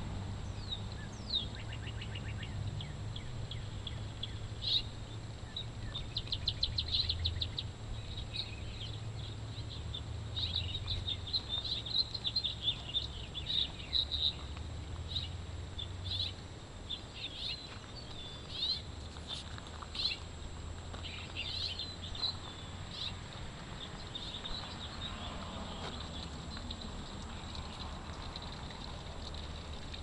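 Songbirds chirping, with many short high calls and a quick trill a few seconds in, over a steady low outdoor rumble.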